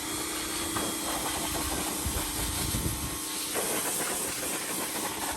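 Pressure washer spraying water at dirt bikes: a steady hiss over a steady hum, starting suddenly at the outset.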